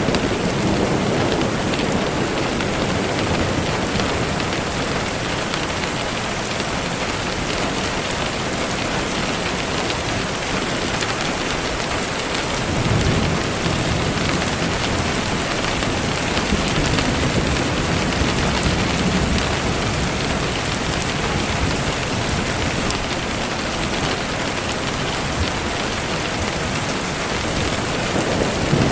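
Steady rainfall, with slow low rumbles of distant thunder swelling and fading a few times.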